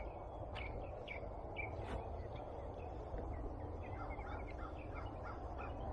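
Outdoor background with a small bird chirping in short repeated calls over a steady low rumble, and a few faint clicks about half a second and two seconds in.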